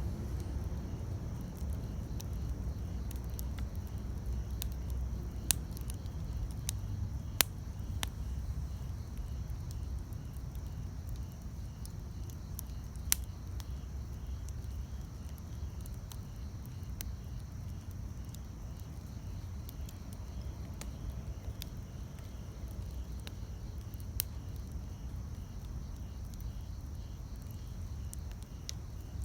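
Wood campfire burning with a low steady rumble and sparse sharp crackling pops, the loudest about seven and thirteen seconds in.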